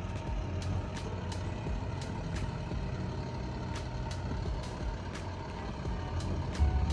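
Box truck engine running steadily as a low rumble, with light clicks about twice a second and a faint steady high tone.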